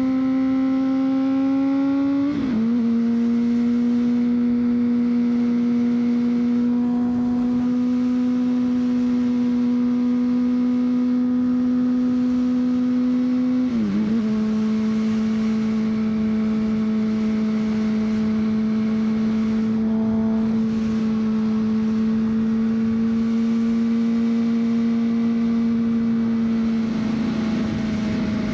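2003 Honda CBR600RR's inline-four engine pulling at a steady high pitch on the move. The sound breaks briefly twice, about two seconds in and about fourteen seconds in, and each time comes back a little lower: two upshifts.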